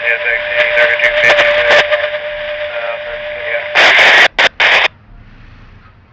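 Railroad scanner radio transmission, thin and band-limited, with a steady tone under faint garbled chatter. Near four seconds in it breaks into loud bursts of static and then cuts off.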